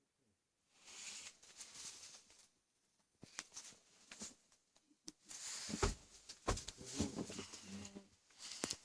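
Intermittent rustling and scratching, with two sharp knocks about six seconds in.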